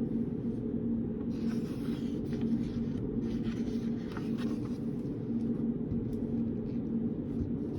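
Pen or pencil writing on paper: short scratching strokes, busiest in the first half and lighter toward the end, over a steady low room hum.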